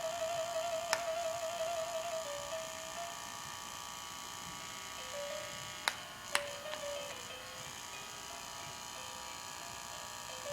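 TinyLove Sweet Island Dreams baby mobile playing a simple lullaby melody while its rotor motor whines steadily over it, the motor noise nearly covering the music. Sharp clicks about a second in and twice around six seconds.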